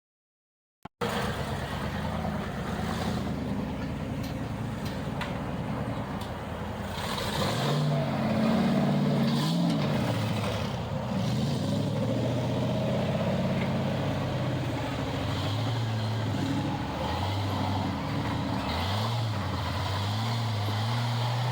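Off-road vehicle engine running, starting about a second in and then revving up and down repeatedly, its pitch rising and falling from about seven seconds in.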